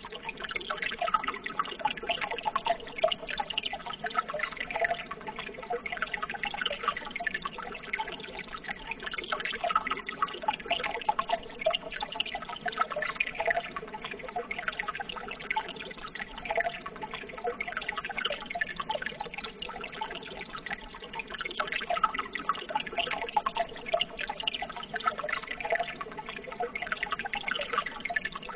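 Running water trickling and splashing steadily, a continuous babble full of small plinks and drips.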